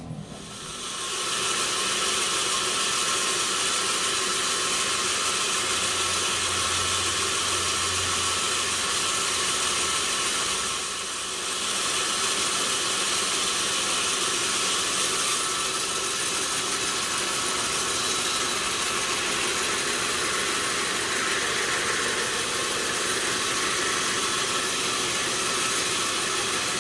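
Sawmill machinery running: a steady, loud mechanical noise with a strong high hiss, building up over the first two seconds and dipping briefly about eleven seconds in.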